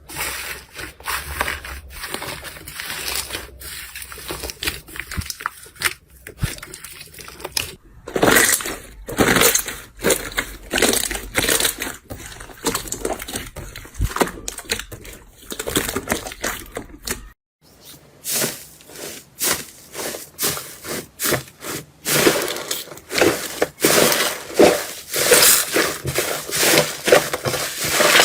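Slime being squeezed, poked and stretched by hand, giving off dense, irregular sticky crackles and pops. There is a short break about two-thirds of the way through, and after it the crackling is louder and more closely packed.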